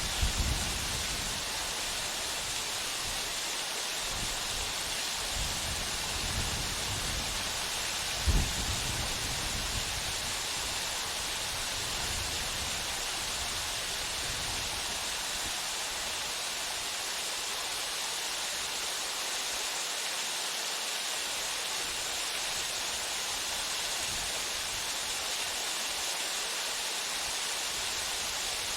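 Waterfall pouring steadily into its pool: an even rushing hiss, strongest in the upper range. There is a brief low thump about eight seconds in.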